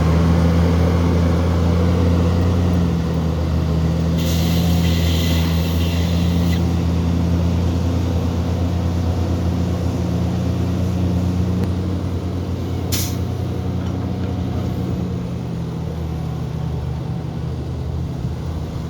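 Heavy diesel engine of earthmoving machinery running steadily. About four seconds in, a burst of air hiss lasts roughly two seconds, typical of a truck's air brakes, and a single sharp click comes later.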